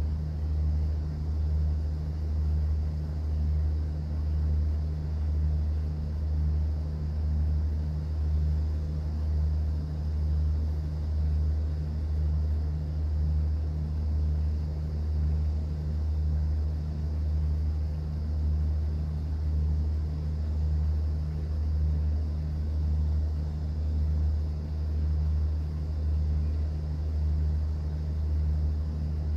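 A cruise boat's engine droning low and steady on board, with a slow, even throb about every second and a quarter.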